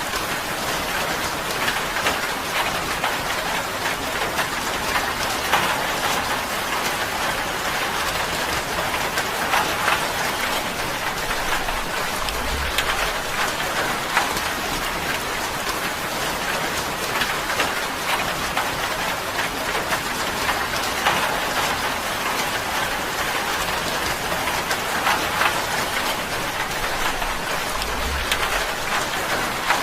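Steady rain drumming on a tin roof, a dense patter of many small drop ticks over an even hiss, with two brief low rumbles.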